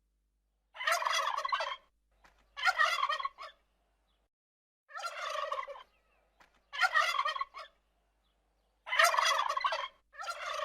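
Domestic turkey gobbling: about six rapid rattling gobbles, each about a second long, with short silent pauses between them.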